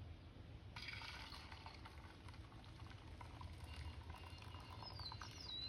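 Faint hiss and crackle of molten lead being poured into a waffle iron, with a bird chirping briefly near the end.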